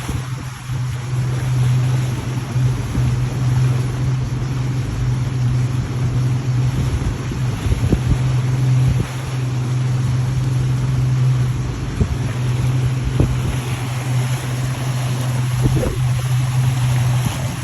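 Motorboat engine running at a steady drone, with wind buffeting the microphone and occasional low thumps.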